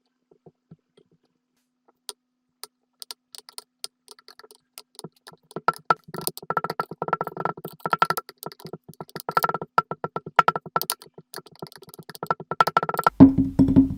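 Kinetic sand crunching with crisp crackling clicks, sparse at first and then dense and rapid. Near the end a wood-block-like musical beat comes in.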